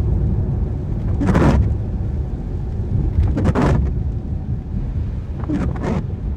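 Steady low road and engine rumble inside a car driving in the rain, with the windscreen wipers swishing across the wet glass three times, about every two seconds.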